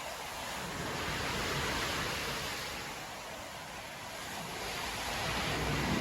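Rough sea surf breaking and washing on a beach in a winter storm: a wave's rush swells about two seconds in, eases off, then builds again near the end.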